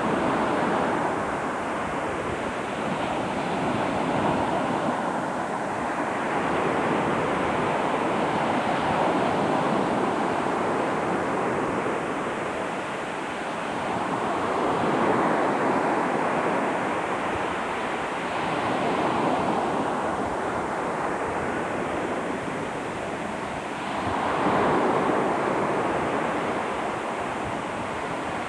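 Surf breaking on a sandy Gulf beach, the wash of the waves swelling and fading every four to six seconds, with wind buffeting the microphone.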